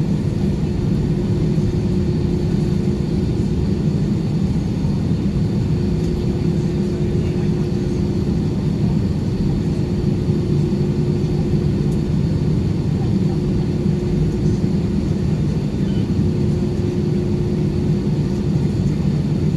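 Steady cabin rumble and engine hum inside an Airbus A320 passenger cabin, heard from a window seat, with one constant tone that neither rises nor falls.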